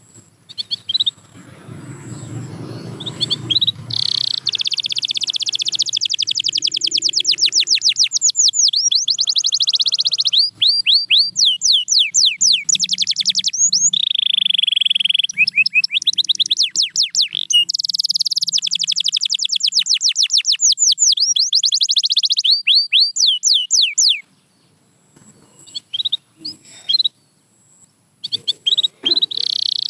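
Domestic canary singing long phrases of fast trills and rolls, rows of rapidly repeated high notes with brief breaks between them. The song stops about three-quarters of the way through, leaving a few scattered chirps near the end.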